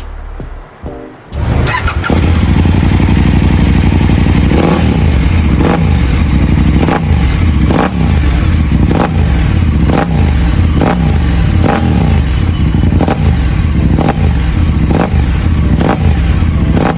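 Husqvarna Norden 901's parallel-twin engine through an HP Corse 4Track Rally slip-on exhaust, catching about a second and a half in, then run at idle with quick throttle blips about once a second, each rev rising and dropping back.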